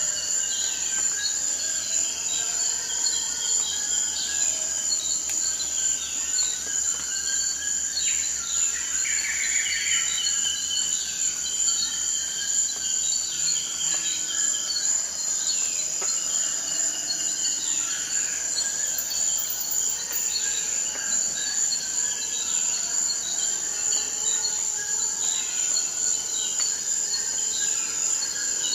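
Forest ambience: a steady, high-pitched insect drone, with short falling chirps repeating over it throughout.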